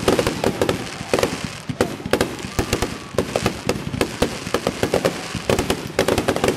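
Aerial fireworks shells bursting in a rapid barrage, several sharp bangs a second.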